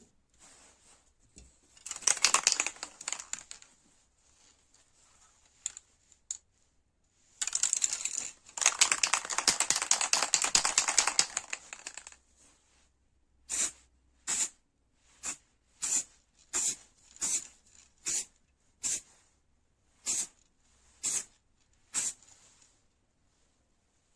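Scraping or rubbing strokes worked by hand: a rapid flurry of strokes, then a dozen separate strokes about one and a half a second.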